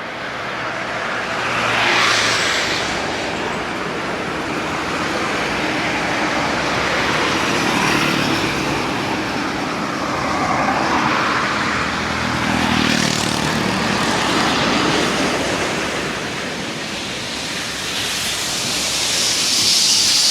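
Road traffic: vehicles passing one after another, about four in turn, each swelling and fading with engine drone and tyre noise over a steady background of traffic.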